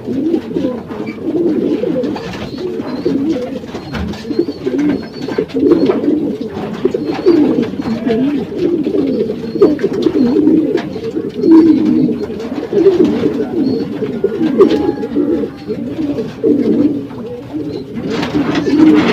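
Many racing pigeons cooing at once, a steady overlapping chorus of low coos, with scattered short clicks among them.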